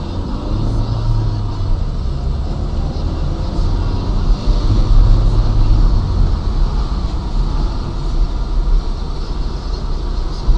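A motor vehicle driving, heard as a steady low rumble of engine and road noise.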